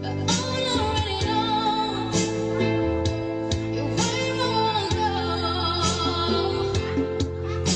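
Music: a woman singing a song over a backing track with held notes and a bass line.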